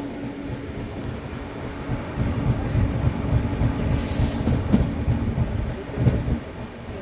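Passenger train coach rolling slowly along the track: a steady rumble of wheels and running gear that swells and falls, with a short hiss about four seconds in.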